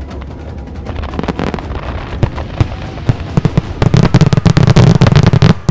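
Aerial fireworks finale: a quick run of shell bursts that thickens about halfway through into a dense barrage of bangs, cutting off abruptly near the end.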